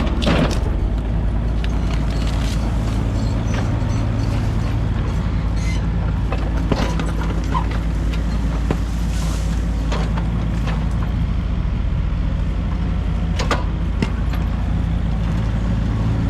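Heavy diesel construction machine engine running steadily, with scattered short clanks and knocks from the work.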